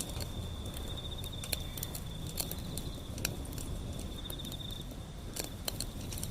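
Wood fire burning: irregular sharp crackles and pops over a low rumble of flames. An insect trills steadily at a high pitch throughout, pulsing in places.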